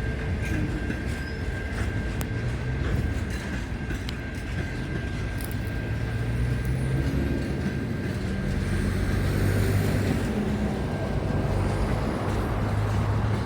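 Train running: a steady low engine rumble with scattered faint clicks, and a thin steady high whine through the first part. The rumble grows a little louder in the second half.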